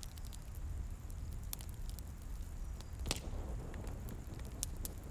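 Wood campfire crackling, with irregular sharp pops, the loudest about three seconds in, over a steady low rumble.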